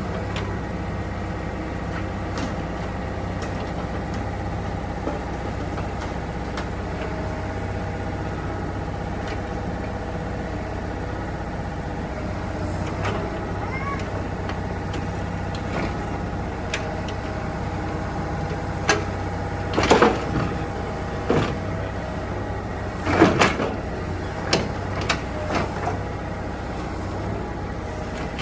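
Yanmar ViO30 mini excavator's diesel engine running steadily, with several sharp clanks and knocks in the last third.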